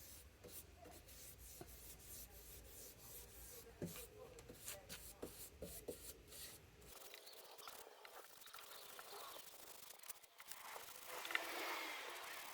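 Paintbrush strokes applying gloss varnish to a sanded wooden cabinet top: faint repeated scratchy brushing, with a louder rub near the end.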